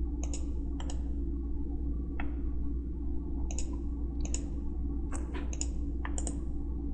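Computer mouse buttons clicking as menu items and geometry are picked in CAD software: about nine short clicks at irregular spacing, some in quick pairs, over a steady low electrical hum.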